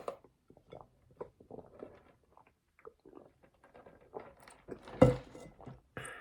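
A person chewing food close to the microphone: irregular short mouth clicks and smacks, with a louder thump about five seconds in.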